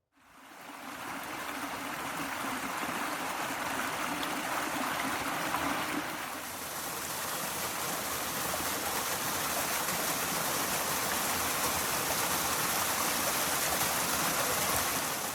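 Waterfall pouring into a pool: a steady rush of water that fades in over the first second.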